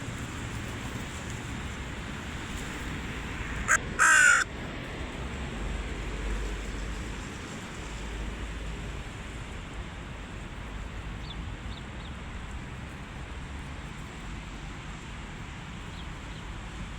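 Hooded crow giving one loud, harsh caw about four seconds in, just after a brief shorter note, over steady low background noise.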